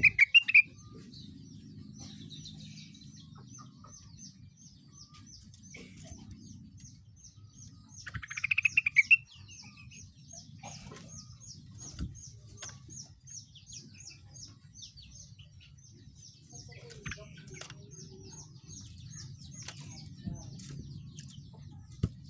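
A rengganis songbird singing: two loud, rapid trilled phrases, one at the start and one about eight seconds in, and between them a long run of fainter, high, evenly repeated chirps at about three a second. A thin steady high whine runs under it.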